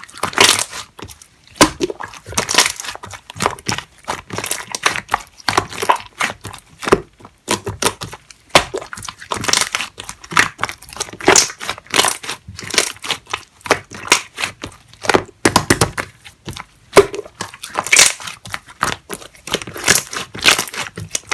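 Slime being squished and stretched by hand, giving a quick, irregular run of sharp clicks and pops.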